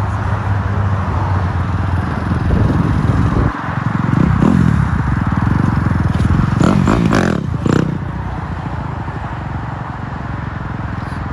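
Dirt bike engine running and revving up and down, loudest a few seconds in, over a steady rush of wind noise from riding.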